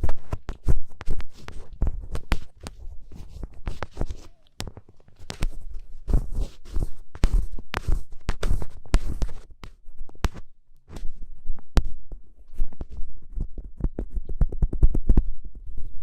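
Ear pick scraping inside a microphone's ear, close up: dense, irregular scratchy clicks over dull low thuds, with a couple of short pauses.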